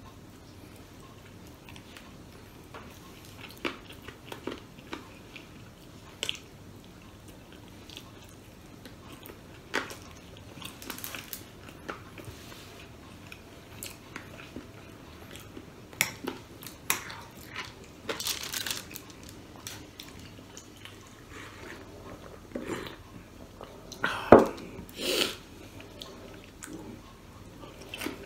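Close-up mouth sounds of a person eating Filipino food by hand: chewing and biting with scattered short crunches, busiest and loudest about two-thirds of the way in and again near the end.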